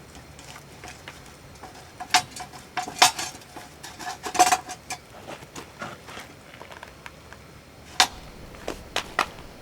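Metal tableware clinking: a run of sharp clicks and taps, with a short metallic ring between about two and five seconds in, then a few more taps near the end.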